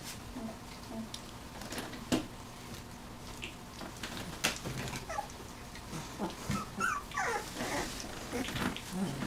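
19-day-old puppies whimpering and squeaking, with scattered soft clicks and shuffling. Short high whines that rise and fall come more often in the second half.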